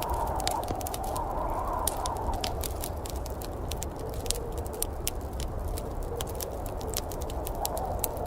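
Wood fire crackling in a fireplace, with many quick sharp pops, over a steady low rumble and a rising and falling whoosh of storm wind that is strongest early on and again near the end.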